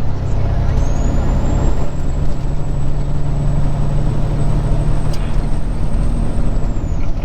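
Semi truck's diesel engine droning steadily at highway speed with road noise, heard inside the cab. A thin high whine rises about half a second in, holds, and falls away near the end.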